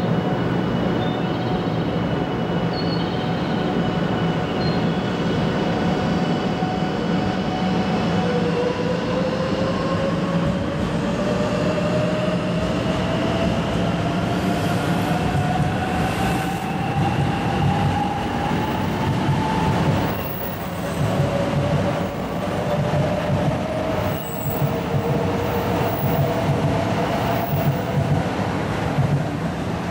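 500 Series Shinkansen train moving under its own power: a steady rumble of wheels on rail with the traction motors' whine rising slowly in pitch as it gathers speed. Near the two-thirds mark the sound changes to the train running past at a steadier pitch, with wheel clatter.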